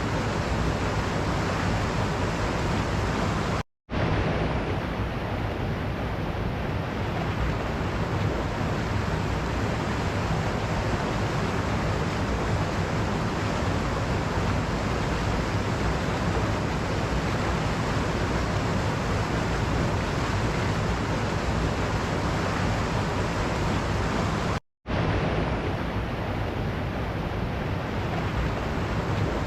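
Waterfall: a steady, even rush of falling water. It cuts out to silence for a split second twice, once about four seconds in and again a few seconds before the end.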